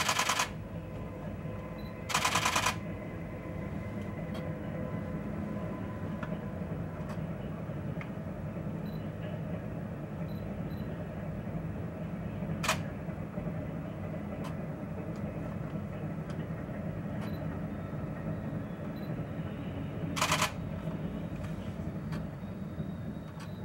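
Steady low rumble of a freight train of tank wagons rolling past, heard through a closed window. Three short bursts of fast rattling buzz break through it, at the start, about two seconds in and near the end, with a single sharp click midway.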